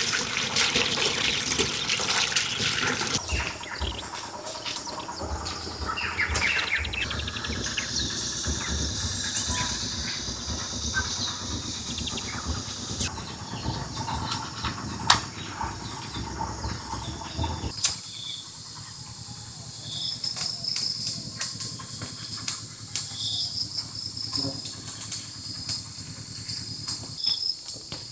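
Water running at the start, then scattered knocks and handling noise over a low rumble. After an abrupt change about two-thirds of the way through, insects chirp in short repeated high calls, with occasional clicks.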